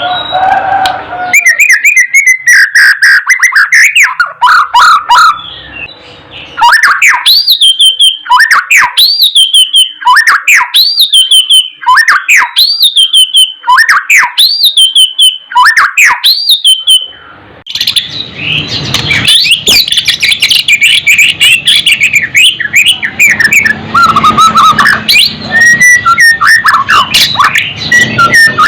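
White-rumped shama singing loud whistled song. Through the middle it repeats one swooping phrase about once a second for some ten seconds, then breaks into a denser, unbroken run of varied notes.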